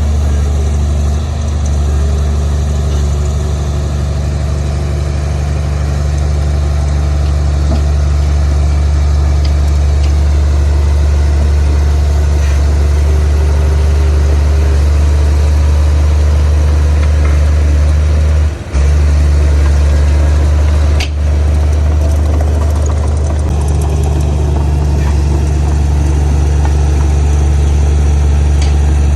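Heavy diesel engine of earthmoving machinery running steadily with a deep, even hum. It dips briefly twice a little past the middle.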